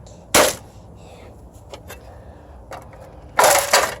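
Sharp blows smashing a washing machine's control-panel electronics: one about half a second in, then two close together near the end, with small clicks between.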